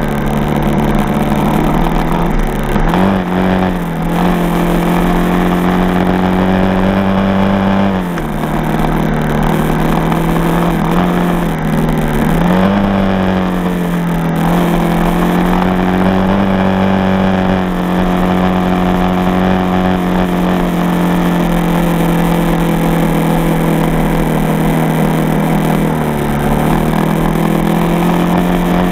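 Dirt bike engine running steadily under way, its pitch climbing and dropping several times as the throttle opens and closes: up a few seconds in, down around the middle, up again soon after, with a small dip near the end.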